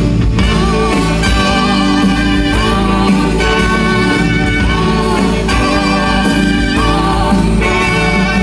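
Live band music: dense sustained chords over a steady low bass, with a wavering melodic line on top, possibly sung.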